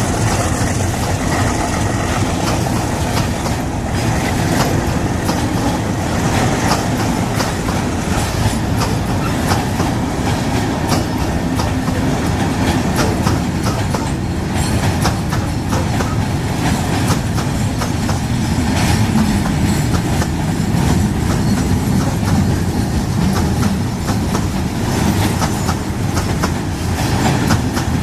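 Freight train of loaded mineral hopper wagons rolling past, its wheels clicking steadily over the rail joints.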